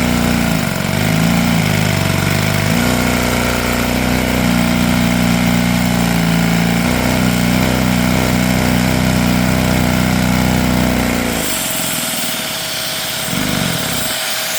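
Inline-two Lego vacuum engine running fast on vacuum suction, pushed toward its top speed: a steady mechanical run whose pitch dips and recovers about a second in. It stops suddenly about eleven seconds in, leaving a hiss.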